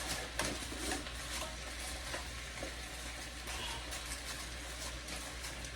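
Cabbage and sausage frying in butter in a pan, a steady sizzle, while a utensil stirs them with occasional small scrapes and clicks.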